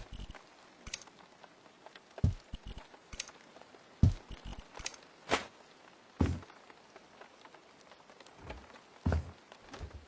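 Scattered knocks and taps at uneven intervals, several of them dull low thuds and a few sharper clicks, as of objects being handled and set down.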